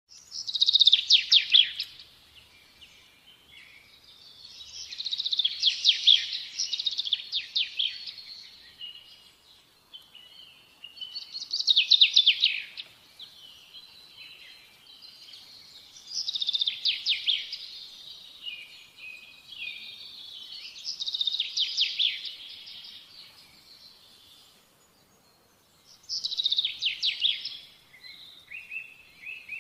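A songbird singing: six loud phrases, one every five seconds or so, each a quick run of notes falling in pitch, with softer twittering between them.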